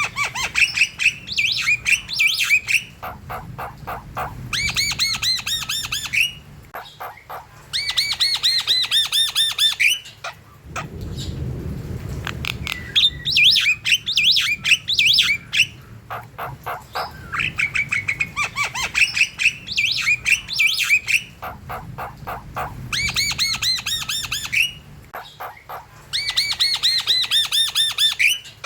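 Javan mynas calling: bursts of a few seconds of rapid clicking trills and quick looping notes, with brief gaps between them.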